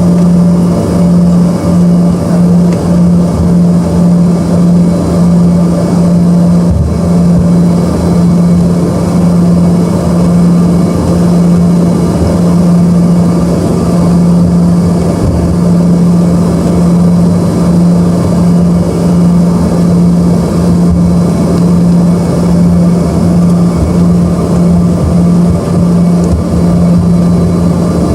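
Embraer ERJ-145's rear-mounted Rolls-Royce AE3007 turbofan engines heard from inside the passenger cabin: a loud, steady drone with a constant low hum underneath.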